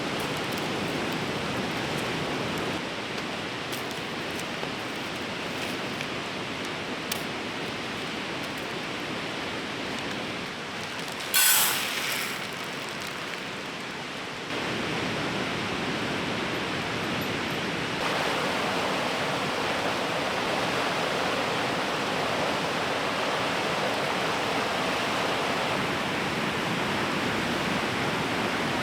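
Steady rush of a fast-flowing river. A sudden loud hiss cuts in about eleven seconds in and fades within a second or so.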